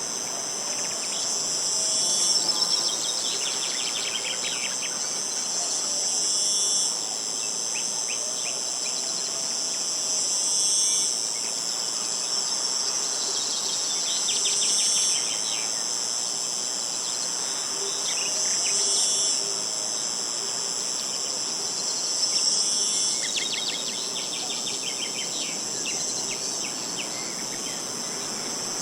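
Steady high-pitched insect chorus that swells and eases about every four seconds, with short bird trills breaking in several times.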